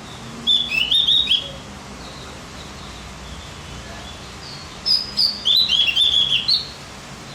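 A songbird singing two bursts of quick, high, warbling notes. The first is short, about half a second in; the second is longer, about two seconds, starting near the five-second mark.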